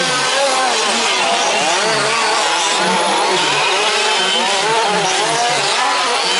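Several 1/5-scale petrol RC trucks' small two-stroke engines buzzing together, their pitches constantly rising and falling as the drivers work the throttles.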